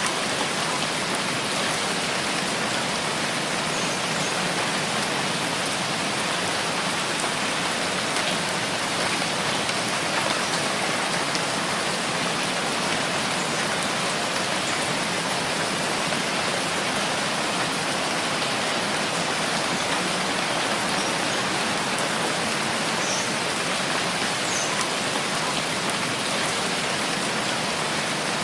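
Steady, dense rainfall pattering without a break, with a few faint, short high chirps here and there.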